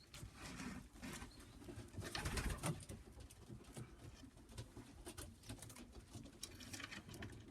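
Domestic pigeons cooing softly, with light scattered clicks and rustles.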